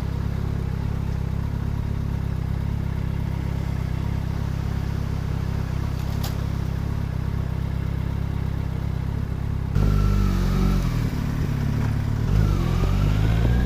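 A motorcycle engine runs at a steady pitch while riding, with one short click about six seconds in. About ten seconds in, the sound cuts to a louder engine that revs up and down, its pitch climbing near the end.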